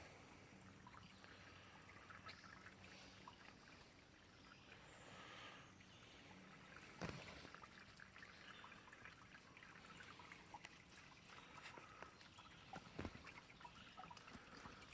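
Faint trickle of spring water running, with a couple of soft knocks, about seven seconds in and again near thirteen seconds.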